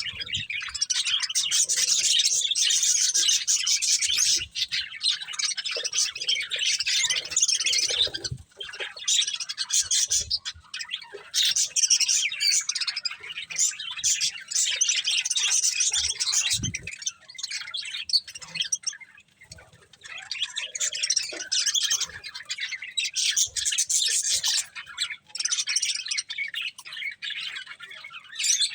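Budgerigars chattering and chirping, several birds at once in a fast, continuous warble with a few brief lulls.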